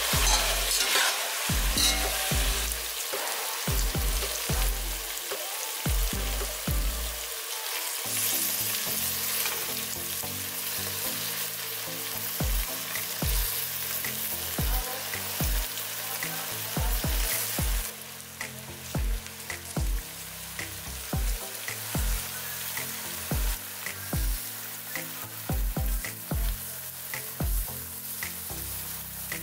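Chopped onion, carrot, tomato and potato sizzling in hot oil in a kazan. A slotted spatula stirs and scrapes through them in the first several seconds, adding clicks and scrapes over the frying hiss.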